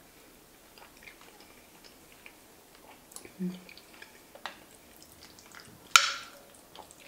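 Close-up chewing of a mouthful of mac and cheese with a crunchy Ritz cracker crumb topping: soft mouth clicks and crunches, with a brief hum of appreciation about halfway. Near the end a metal spoon clinks once, sharply, against the ceramic baking dish and rings briefly.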